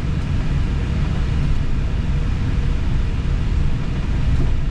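Steady low rumble and hiss of an Airbus A320 cockpit while the aircraft taxis.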